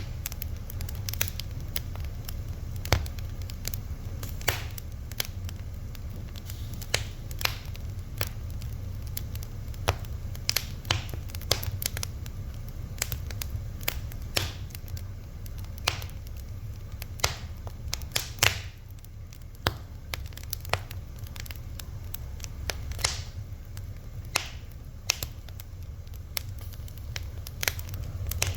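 Fire crackling: irregular sharp pops and snaps over a steady low rumble, thinning out briefly about two-thirds of the way through.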